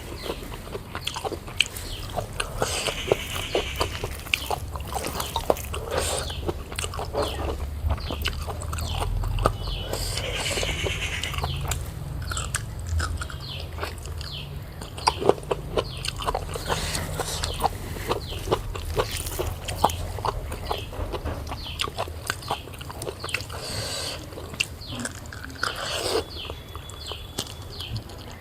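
Close-miked eating: chewing and biting, with many short wet clicks and crackles, over a steady low hum.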